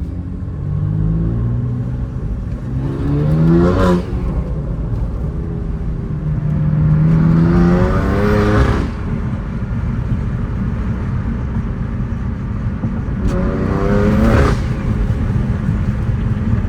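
BMW F80 M3's twin-turbo straight-six, fitted with an M Performance exhaust, accelerating hard three times. The engine note climbs steeply through each pull and drops off sharply at its end.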